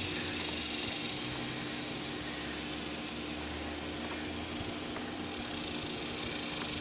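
Steady background hiss with a faint low hum underneath, and no distinct tool or part sounds.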